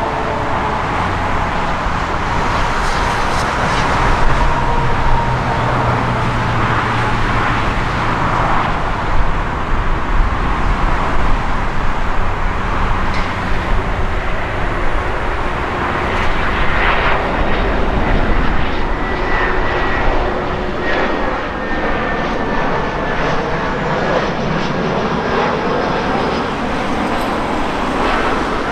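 Jet airliner engines running loud and steady, with a faint high whine that slowly falls in pitch.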